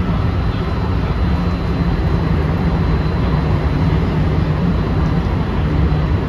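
Running noise inside a JR West 223 series 2000-subseries electric train's motor car at speed: a steady rumble of wheels on rail with a low drone and a faint steady high whine.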